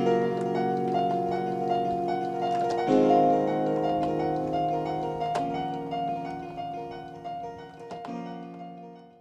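Electronic keyboard playing slow, harp-like chords that change every two or three seconds, then fading out at the end.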